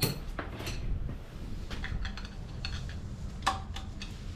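Scattered light metallic clinks and clicks of hand tools and metal parts being handled. The loudest comes about three and a half seconds in, with a brief ring.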